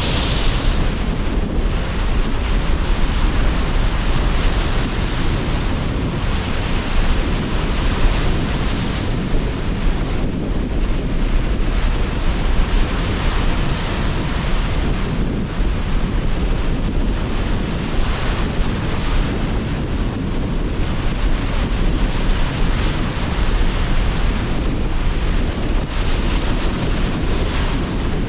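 Sea surf breaking and washing in under strong, gusting wind, with wind buffeting the microphone as a deep rumble. The surf swells and ebbs every few seconds.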